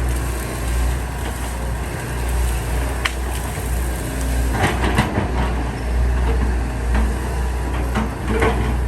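Heavy diesel earthmoving machinery running with a steady low rumble, with a few sharp metallic clanks about three seconds in, around the middle and near the end.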